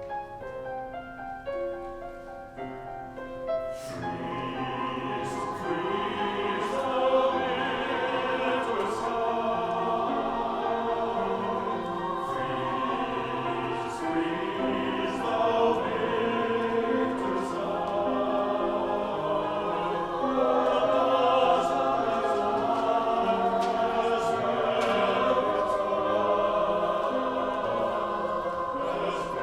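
Choir singing with piano accompaniment. The piano plays alone for about the first four seconds, then the voices come in and carry on in full harmony.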